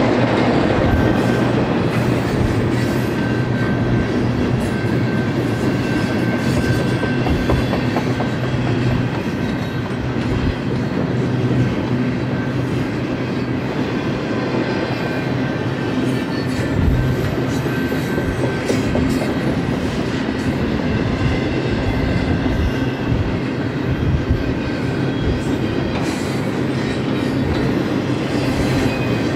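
Double-stack container well cars rolling steadily past, steel wheels rumbling on the rails with irregular clicking over the rail joints.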